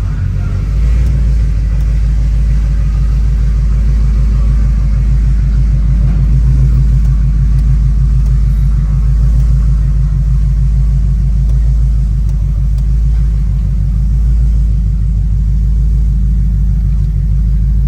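Ford Crown Victoria's 4.6-litre V8 running steadily with an even, low exhaust rumble. Its exhaust leaks have just been repaired, so it sounds back to normal, without the leak noise.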